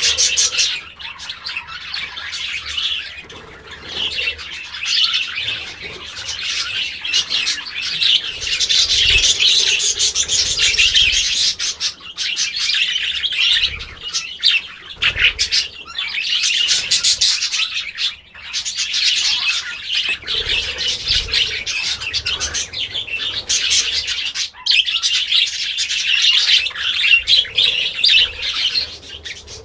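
A flock of small birds chirping and chattering, many rapid high calls overlapping in dense bouts that swell and ease off every few seconds.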